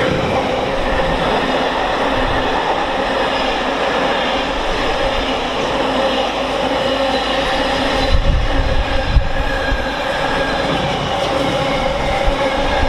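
Class 66-hauled Freightliner intermodal freight train passing, its wagons rolling over the rails in a loud, steady run with steady high tones over it. A few heavier knocks come about eight seconds in.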